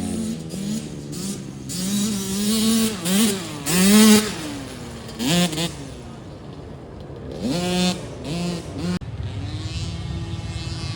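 Dirt bike engines revving hard as the bikes race past, the pitch climbing and falling repeatedly through throttle changes and gear shifts. About nine seconds in, this gives way abruptly to a steadier engine drone.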